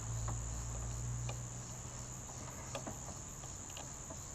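Steady high-pitched trill of crickets, with a few light clicks of the jumper-lead clamp being worked onto the motorcycle battery terminal.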